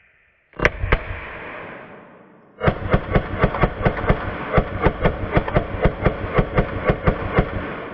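AR-15 rifle with a binary trigger firing: two quick shots, then after a short pause a rapid string of about twenty shots at roughly four a second, each with an echoing tail, stopping near the end.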